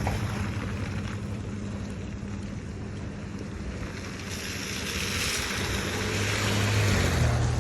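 A motor vehicle passing on the road: a low engine hum under a hiss of tyres that swells and is loudest near the end.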